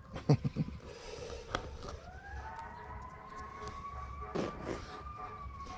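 An emergency-vehicle siren wailing: one slow rise in pitch about two seconds in, held high for a few seconds, then slowly falling.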